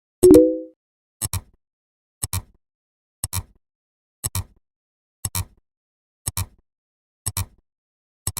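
Sharp double ticks repeating evenly about once a second, like a clock ticking. A short, loud, low pitched tone cuts in once about a third of a second in.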